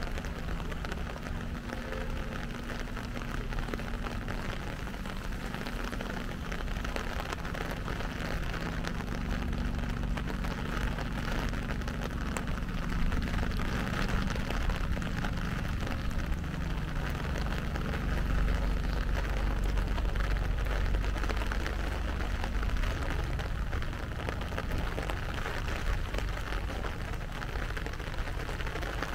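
Steady light rain falling, an even hiss of drops, with a low rumble of road traffic underneath that swells about two-thirds of the way through.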